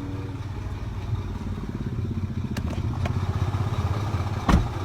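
Motor vehicle engine running at idle with a steady low rumble, and one loud thump near the end.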